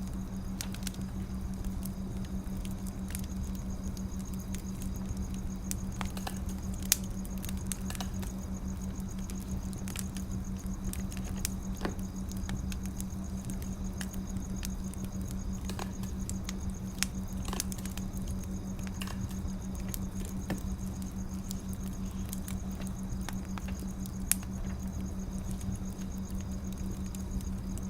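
Firewood burning: a steady low rumble with scattered crackles and a few sharper pops.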